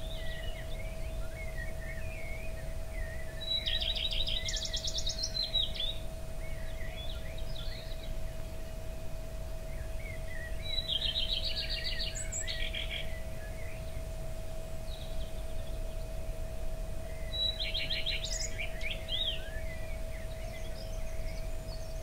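A songbird singing a short, rapid trilled phrase three times, about every seven seconds, over faint twittering from other birds and a steady low hum.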